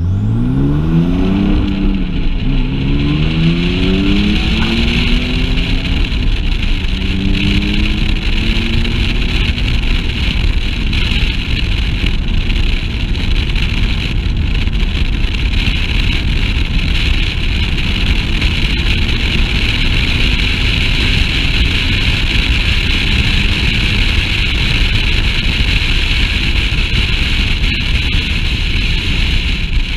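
Sports car engine accelerating hard through several upshifts, its pitch climbing and dropping back at each shift over the first ten seconds. After that it is buried under steady wind buffeting on the microphone and road noise at track speed.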